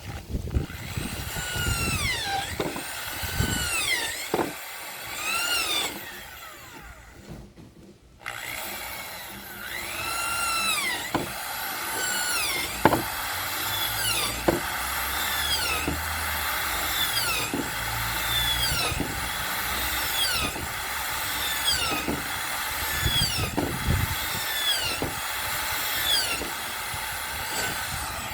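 Saw cutting through wood in steady back-and-forth strokes, about one every second and a half, each stroke rising and falling in pitch, with light knocks between strokes. The sawing stops for about two seconds a quarter of the way through, then resumes.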